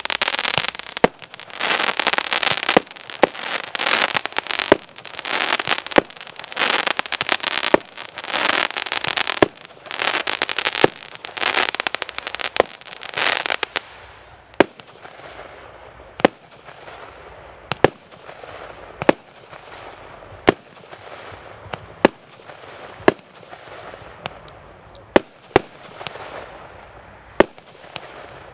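Multi-shot firework cake (a 73-shot mixed 20–50 mm battery) firing. For about the first half, a dense crackling with rapid bangs runs together; after that come single sharp bangs about once a second.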